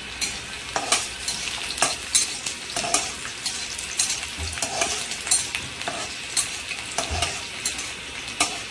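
Chopped garlic and fennel seeds sizzling in hot oil in a kadhai, while a stirring utensil scrapes and taps the pan about twice a second.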